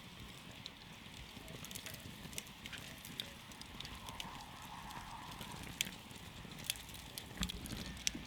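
Campfire crackling: irregular sharp pops and snaps of burning wood, a few louder ones in the second half, over a steady hiss and low rumble of the flames.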